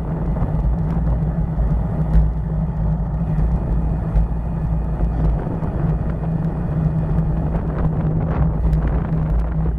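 Steady low rumble of wind and road noise while riding along a road, with no breaks.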